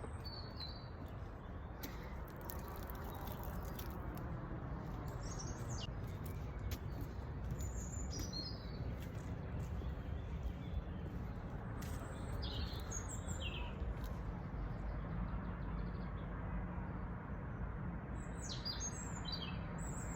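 Small songbirds chirping in short, scattered phrases, over a steady low rumble of background noise with a few brief clicks.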